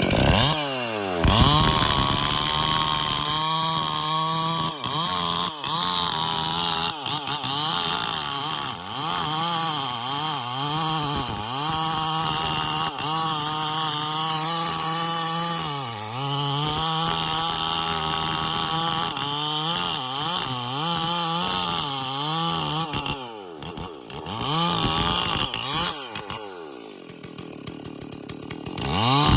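Stihl MS440 two-stroke chainsaw revving up and cutting bayur wood at full throttle, its note dipping and recovering under load. About 23 seconds in it drops back toward idle, revs briefly, idles again, and revs up once more at the very end.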